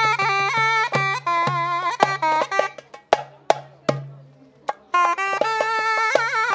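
Zurna playing a fast, ornamented folk melody with crisply articulated notes over a steady low drone. About three seconds in the melody breaks off and a few loud, sharp percussive strokes sound alone, and the zurna comes back in near the five-second mark.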